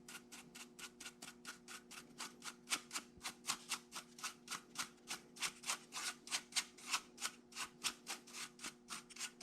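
Rhythmic scraping or rubbing strokes, about five a second, over a steady machine hum.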